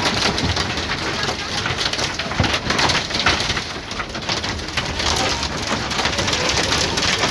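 Hailstones pelting down on hard surfaces: a dense, steady clatter of many sharp ticks.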